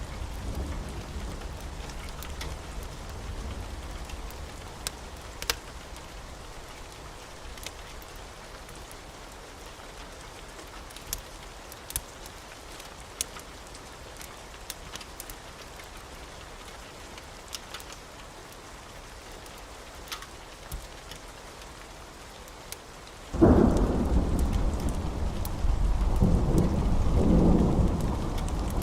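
Steady rain with scattered sharp pops, then, a few seconds before the end, a sudden loud thunderclap that rolls on as a deep rumble.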